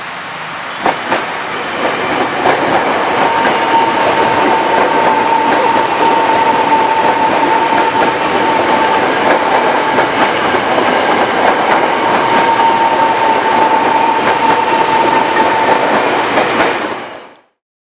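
KRL commuter electric train passing close by, wheels clattering over the rails with a few sharp clicks about a second in and a steady high-pitched tone through most of the pass. The sound fades out near the end.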